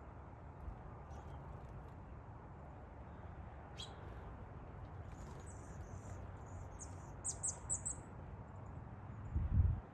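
Birds chirping: a quick downward-sliding call about four seconds in, then a run of short high chirps, over a steady low rumble. A dull low thump comes near the end.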